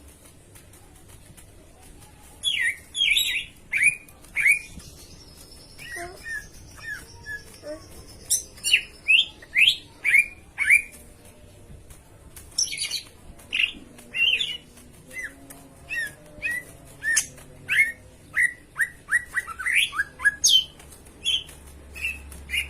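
Cucak ijo (green leafbird) singing: a lively string of sharp, down-sweeping whistled notes and chirps, often in quick runs of several notes.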